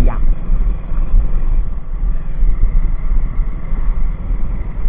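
Motorcycle riding along a road: a steady low rumble of engine and road noise mixed with wind buffeting on the microphone.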